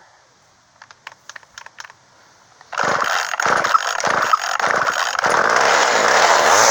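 Poulan Micro Pro two-stroke chainsaw being pull-started on a splash of gas poured into the carburetor: a few light clicks, then it fires and sputters in bursts and catches about five seconds in, running with a changing pitch. Firing on the poured-in fuel shows it is getting spark, so the owner takes the fault for a dirty carburetor.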